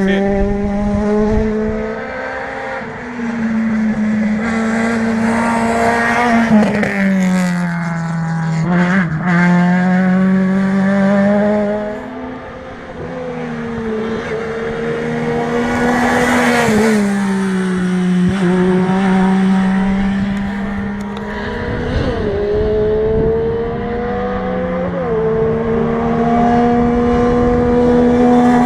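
Rally car engine running hard through a gravel special stage, its pitch climbing and dropping again and again with gear changes. A loud rush of hiss a little past halfway.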